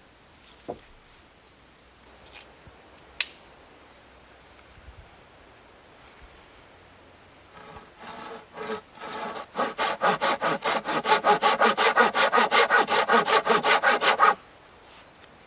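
Hand saw cutting through wood: a few uneven strokes about halfway in, then quick, even back-and-forth strokes that stop shortly before the end.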